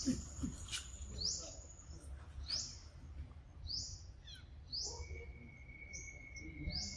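A bird calling a short, high, rising note over and over, about once a second. A thin steady whistle joins in for the last two seconds.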